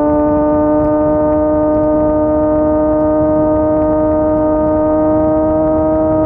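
Yamaha R6 sport bike's inline-four engine pulling hard at high revs, one steady note climbing slowly in pitch.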